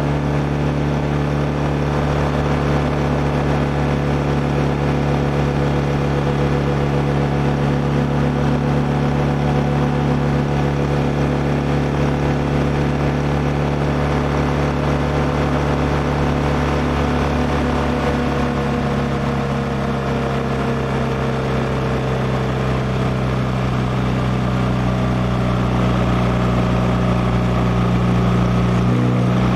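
BMW R1200R's flat-twin boxer engine running at a steady cruising speed, with wind noise. Its pitch sags slightly in the second half, and shifts abruptly right at the end.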